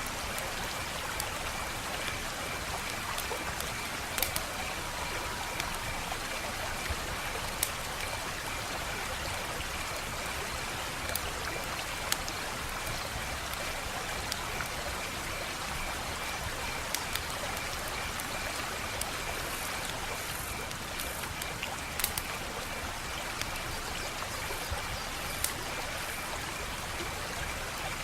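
Wood fire crackling: a steady hiss with scattered sharp pops, the loudest about 4 and 22 seconds in. A faint steady high note sits under it.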